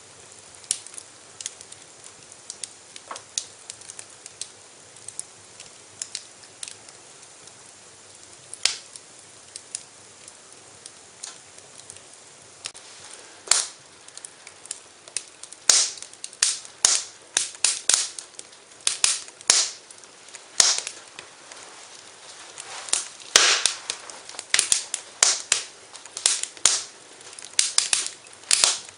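Wood fire crackling: sharp snaps and pops over a faint hiss, scattered at first, then coming thick and loud from about halfway in.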